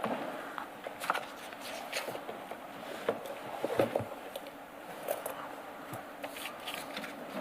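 Paper files being handled and pages turned: scattered rustles, with light knocks and clicks.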